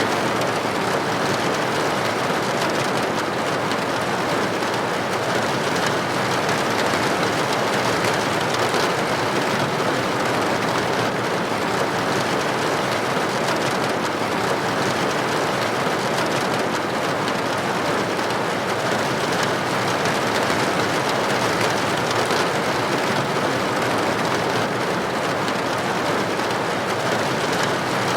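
Steady rain with droplets pattering against a building window.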